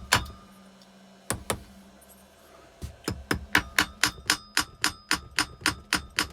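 Sharp metallic clicks from a hand tool being worked back and forth on a motorcycle engine: two clicks, then after a pause a steady run of about four clicks a second with a faint ring.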